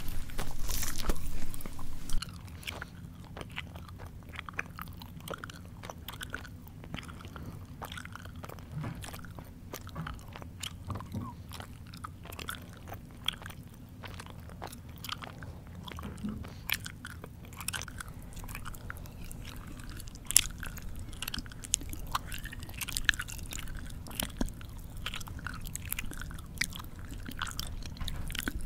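Close-miked human chewing: loud crunching bites for the first two seconds, then softer, steady chewing with many small irregular mouth clicks and crunches.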